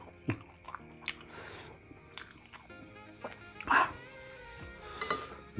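A person chewing a mouthful of fried rice, with small mouth clicks and one short louder mouth sound about two-thirds of the way in, over soft background music.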